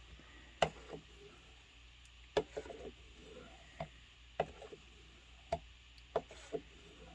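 Knife blade being worked on a hand-held Work Sharp sharpener: about nine short, sharp taps and scrapes at an irregular pace, as the edge is touched up with strokes on the ceramic and the strop.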